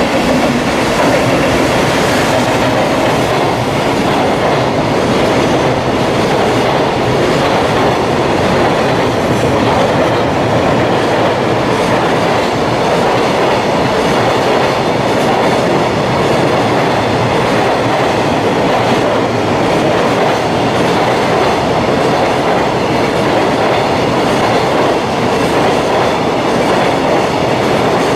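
Japanese freight train passing close by, its long string of wagons rolling past loud and steady.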